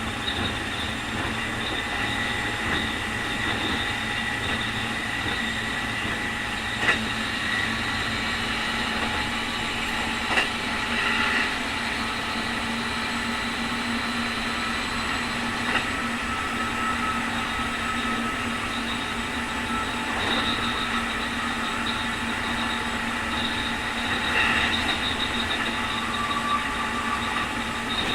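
Keikyu 2000 series electric train (Mitsubishi field-chopper control) running at speed, with a steady high whine over the running noise: the so-called 'jet sound' of this abnormal-noise car. A few sharp clacks from the rails stand out.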